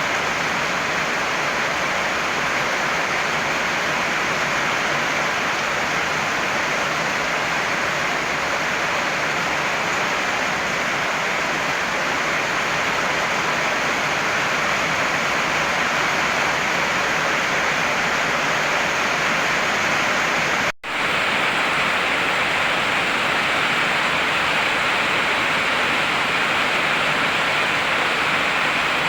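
Heavy rain falling as a steady, dense hiss. It cuts out for a split second about two-thirds of the way through, then carries on unchanged.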